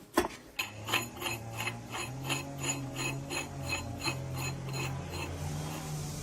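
A motor-driven mechanism starts after a single click and runs with a steady low hum and an even clicking about three times a second.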